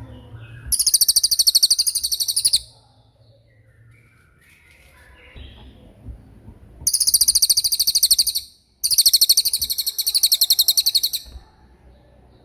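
A small songbird sings three long, very fast rattling trills of high notes, each about two seconds long, with fainter chirps between them. This is the rolling 'tembakan' burst song that is played as tutor song for competition birds.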